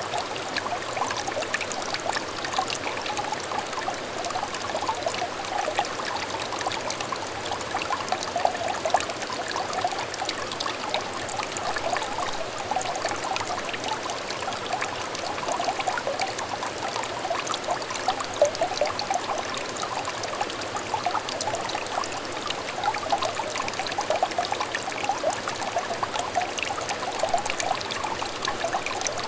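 A small stream trickling and babbling over stones, a steady run of quick little burbles and droplet splashes.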